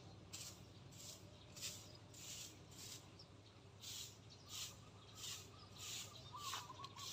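Faint outdoor ambience: a soft hissing sound repeating about one and a half times a second, with a small bird trilling in the second half.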